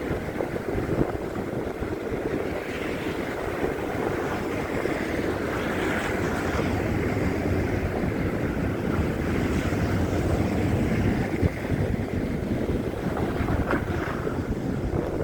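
Wind buffeting a handheld phone's microphone in a snowstorm: a steady, rough rush with a heavy low rumble.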